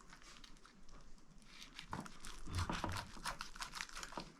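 Faint crinkling, then from about two seconds in a run of light clicks and crackles as the baked pike is picked apart.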